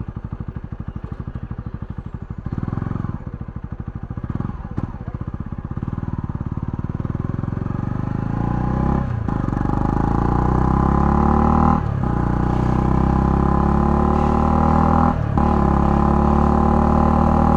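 Honda CL250's single-cylinder engine putting at low revs with slow, even exhaust pulses, then pulling away and accelerating hard. The pitch climbs and drops three times as it is shifted up through the gears.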